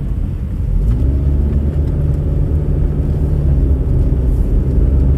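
A motor vehicle's engine running with a low, steady rumble, becoming a little louder and more even about a second in.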